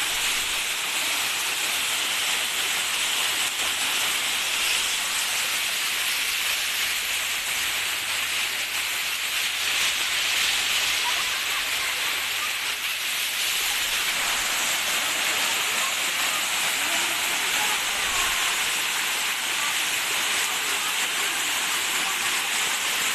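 Waterfall's water rushing in a steady, unbroken hiss.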